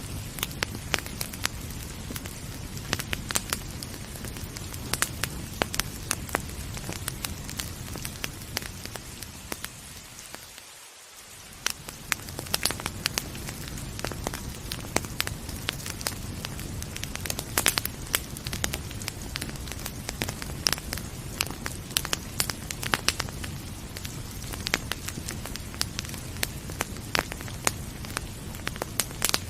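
Wood fire crackling, with frequent sharp pops over a steady rain-like hiss. About eleven seconds in, the whole sound briefly fades almost away and then swells back.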